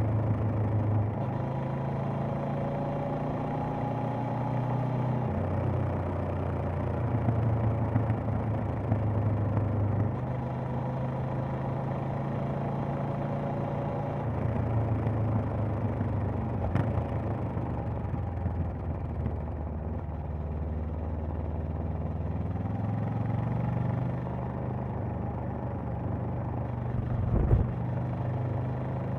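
Honda CB500X's 471 cc parallel-twin engine and exhaust running under way, its pitch shifting down and up a few times as the revs change. A short low thump stands out near the end.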